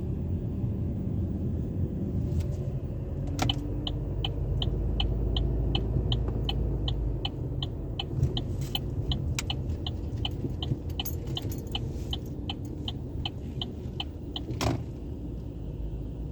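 Steady low rumble of a vehicle going through a car wash tunnel, with a light, even ticking about three times a second that starts with a click a few seconds in and stops with another click near the end.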